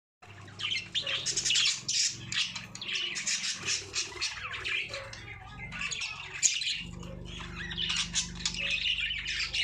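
A flock of budgerigars chattering, with many overlapping squawks and chirps at once. A steady low hum runs beneath them, dropping out for a while around the middle.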